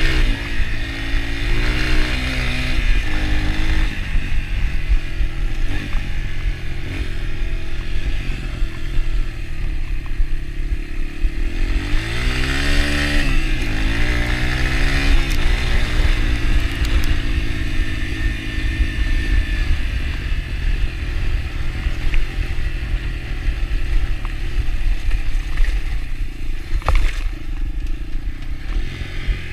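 Yamaha TT-R125 dirt bike's single-cylinder four-stroke engine running while riding, its pitch rising and falling with the throttle. About twelve seconds in it revs up sharply and drops back down.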